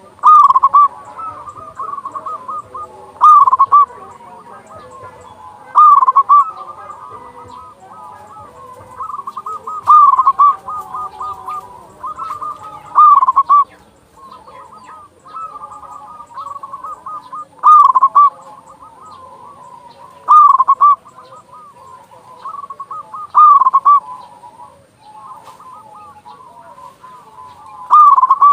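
Zebra dove (perkutut) cooing its rolling song over and over. A loud phrase comes roughly every three seconds, with softer cooing between, as a male in full song does.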